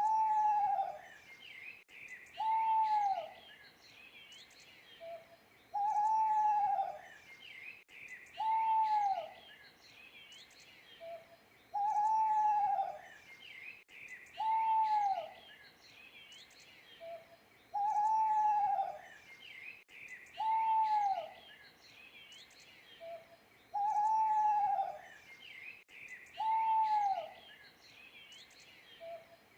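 An owl hooting in a repeated phrase about every six seconds: a short soft note, then two drawn-out hoots that rise and then fall in pitch. Small birds chirp faintly behind it.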